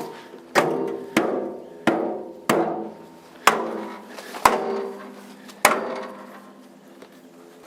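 A stick whacking the metal of a stalled Nissan, about eight hard strikes roughly a second apart, each ringing briefly before fading, until they stop about six seconds in. The blows are meant to get the engine running again, which the owner suspects is not getting any fuel.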